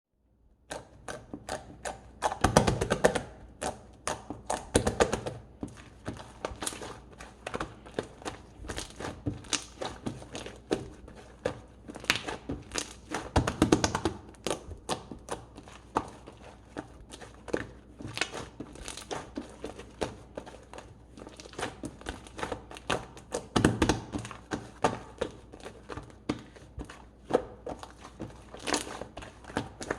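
Hands pressing, poking and squishing slime, making a rapid stream of small clicks and pops, with louder bursts of squelching a few times.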